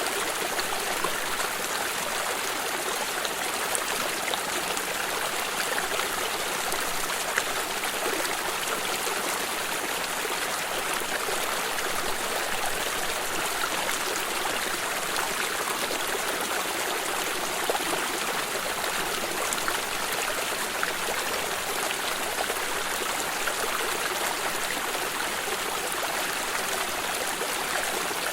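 Small stream flowing steadily over stones, a continuous bright rush of water with light trickling and splashing.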